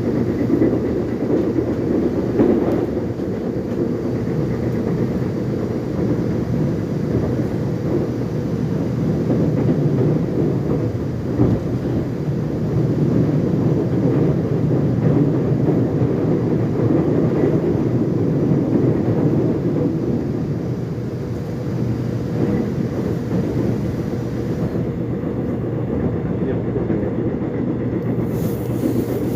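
Korean commuter subway train running, heard from inside the carriage: a steady low rumble of wheels and running gear, with an occasional faint clack from the rails.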